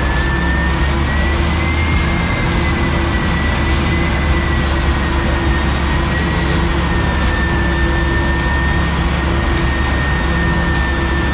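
Vauxhall Astra van running at a steady speed on a rolling-road dyno, mixed with the dyno cell's machinery: a loud, even mechanical noise with a low hum and a thin whine that wavers slightly in pitch. The engine is held steady, not revved through a power run.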